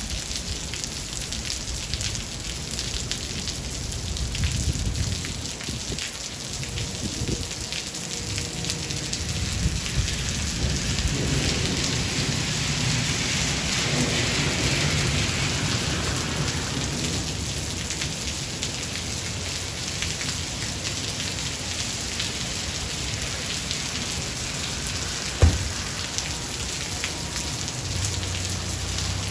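Steady rain falling, with low rolling thunder that swells and grows louder in the middle, then eases off. A single sharp crack near the end.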